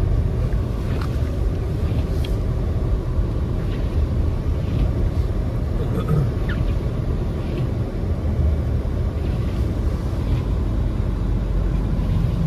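Steady low rumble of a car driving on a snow-covered road, heard from inside the cabin: engine and tyre noise, with a few faint knocks.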